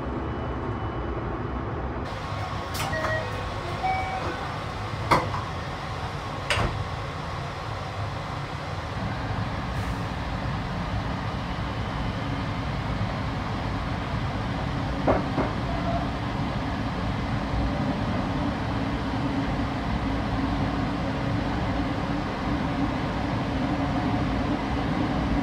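Steady low rumble of a moving sleeper train heard from inside the carriage, with a few sharp clicks in the first seven seconds and another pair about fifteen seconds in.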